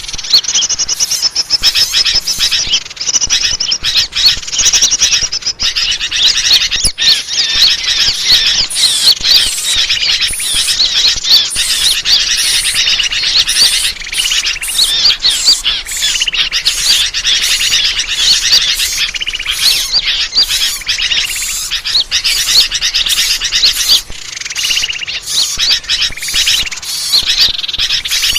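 Bird-lure (pikat) recording of many small birds chirping and twittering at once: a dense, unbroken chorus of rapid high-pitched calls.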